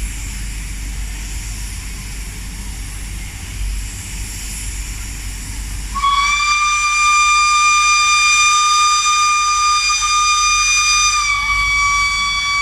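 A Thai State Railway Pacific steam locomotive's whistle, blown in one long blast starting about halfway in: a single high, clear note that steps down slightly near the end. Before it comes a steady rumbling hiss.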